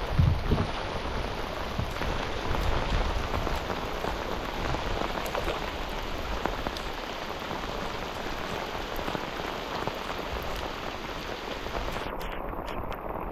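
Steady rain falling on the river, a dense patter of many small drops, with a brief low thump just after the start.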